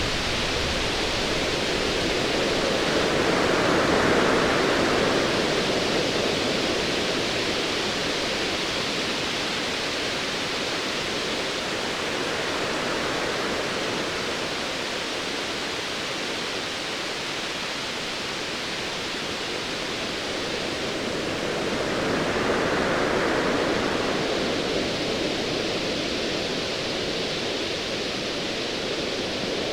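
Ocean waves washing ashore over a steady hiss, surging louder twice: about four seconds in and again a little past twenty seconds.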